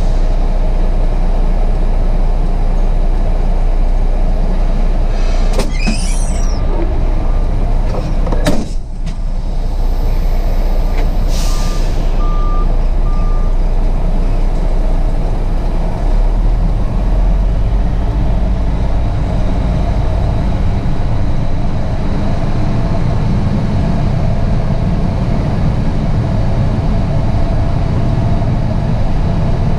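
Heavy container truck's diesel engine running with a steady low rumble. An air-brake hiss comes about eight seconds in, and short beeps sound twice, near the end of the first quarter and again about twelve seconds in.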